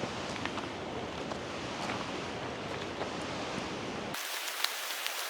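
Steady rushing outdoor noise with scattered light ticks. About four seconds in it cuts off abruptly to a thinner, higher hiss with no low rumble and more frequent ticks.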